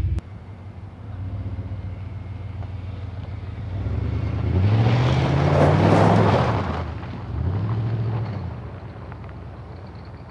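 Ford F-150's 5.0 L (302) V8 running as the pickup drives off, its revs rising twice as it accelerates, about halfway through and again near the end.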